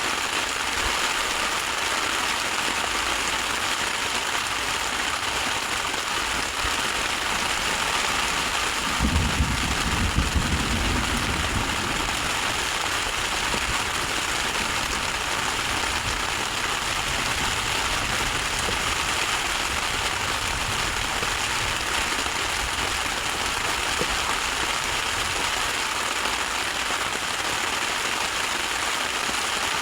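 Steady rain falling without a break, the hiss of heavy rain pattering on surfaces. About nine seconds in, a low rumble rises for a few seconds and then fades.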